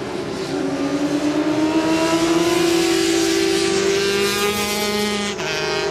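400 cc supersport racing motorcycles running hard, the engine pitch climbing steadily for about four seconds under acceleration, then breaking off sharply near the end.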